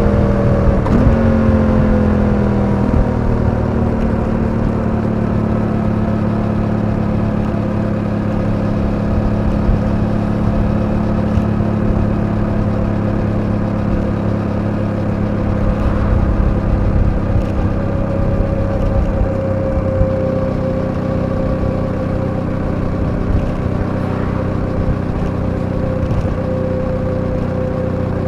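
Suzuki V-Strom 800DE's parallel-twin engine running on the move. Its pitch falls over the first few seconds, then it holds a steady cruise with only slight rises and falls in revs.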